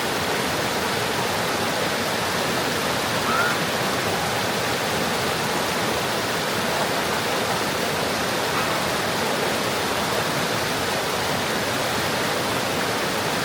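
Rushing water of a mountain valley stream: a steady, unbroken rush.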